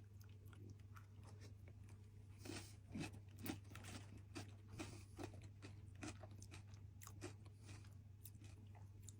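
Someone chewing a crunchy snack close to the microphone: faint, irregular crunches, mostly in the middle of the stretch, over a low steady hum.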